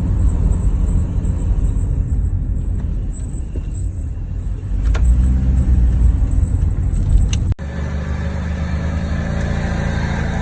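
Toyota Wish driving, a steady low rumble of engine and road, with a break about three-quarters of the way through after which it carries on.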